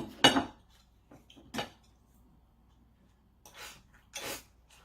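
Eating utensils clinking against a dish: two sharp clinks at the start and another about a second and a half in, then two softer scraping sounds near the end.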